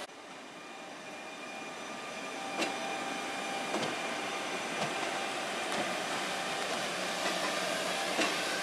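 A regional electric multiple unit rolling slowly past: steady running noise with a faint hum that builds over the first few seconds, and occasional clacks of the wheels over rail joints.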